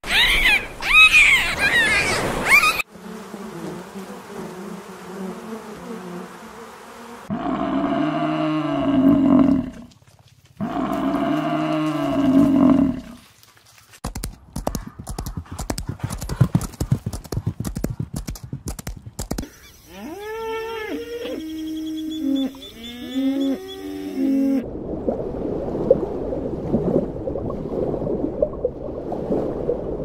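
A string of different animal sounds cut one after another. High sliding calls come first, then two long low calls. A stretch of rapid hoofbeats from running horses follows, then a quick series of pitched calls. It ends in a rushing, water-like noise.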